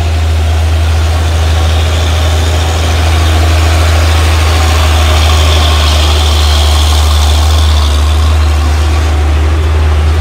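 Heavy truck engine running steadily at low revs with a loud, deep drone.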